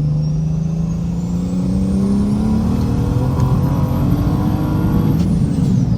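Straight-piped, big-single-turbo BMW N54 inline-six accelerating hard at full throttle through third gear, its engine note climbing steadily in pitch with a high whine rising alongside. About five seconds in the pull ends abruptly and the whine falls away.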